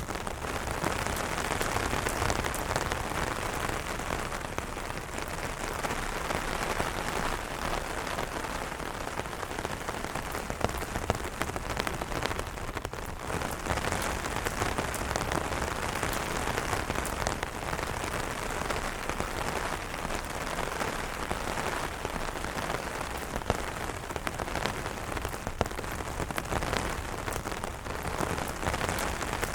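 Steady rain drumming on umbrella fabric, a dense patter of drops with occasional louder single drops.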